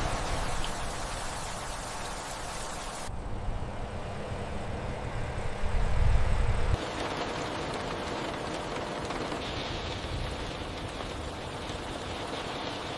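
Heavy rain falling, a steady hiss. The sound changes abruptly about three seconds in and again near seven seconds, with a louder low rumble just before the second change.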